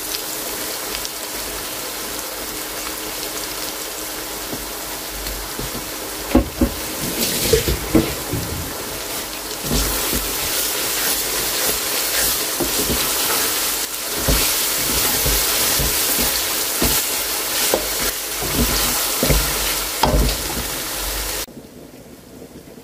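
Onion, garlic, ginger and chopped tomato sizzling in oil in a metal pan, with a wooden spatula stirring, scraping and knocking against the pan from about six seconds in. The sizzle drops to much quieter shortly before the end.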